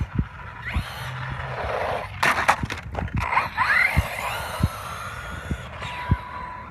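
Radio-controlled electric desert truck driving: rolling tyres with a brief clatter of knocks about two seconds in, and the motor's whine rising in pitch as it speeds up, then holding steady near the end.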